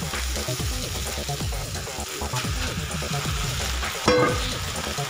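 Corned beef and onions sizzling in oil in a wok, stirred with a spatula. About four seconds in, a mound of cooked rice is tipped into the wok with a sudden loud knock that rings briefly.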